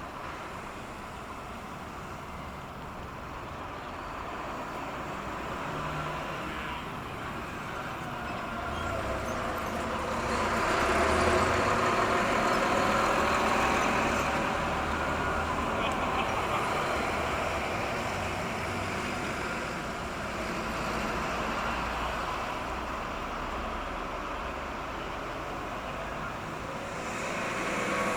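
Motor engine noise that swells to its loudest about ten to fourteen seconds in and then eases off, with a low throb under a shifting whine; it builds again near the end.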